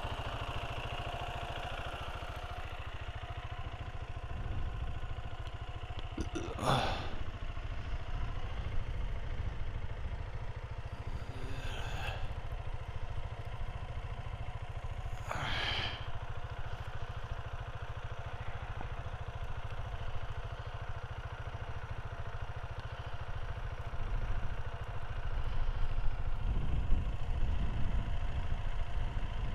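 Motorcycle engine running steadily while riding, with a heavy wind rumble on the microphone and a few brief louder rushes of sound.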